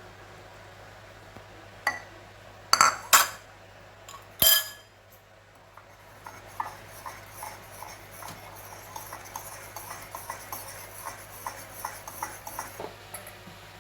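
A spoon clinking against a mug: a few sharp knocks, then a long run of quick light taps, several a second, as the mug-cake batter is stirred.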